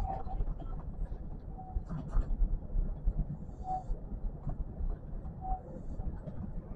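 Kintetsu electric train running along the line: a steady low rumble with scattered knocks, and a brief faint tone about every two seconds.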